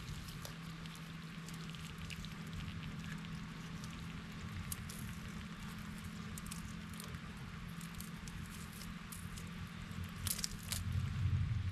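Rain pattering and dripping on vegetation, with many scattered sharp ticks of drops that grow denser near the end.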